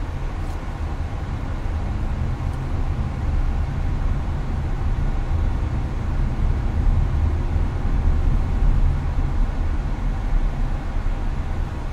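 Steady highway road and engine noise heard inside a Hyundai Avante's cabin: a deep, constant low rumble under an even hiss, with the air conditioner blowing.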